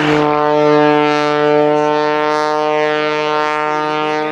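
Aerobatic biplane's piston engine and propeller droning at a steady pitch.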